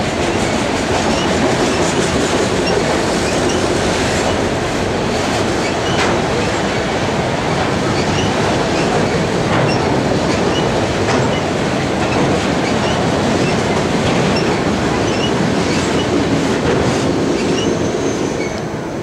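Freight train's autorack cars rolling past: a steady rumble of steel wheels on rail with scattered clicks and brief high wheel squeaks. It fades near the end as the last car goes by.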